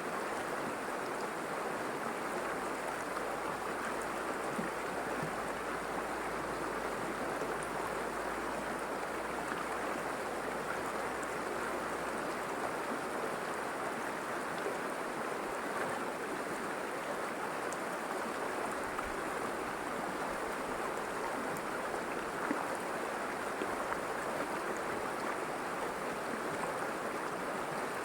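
River water running and babbling steadily.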